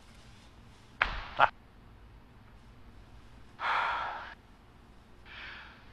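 Two sharp knocks about half a second apart, then a person's long sighing exhale and a shorter breath out near the end.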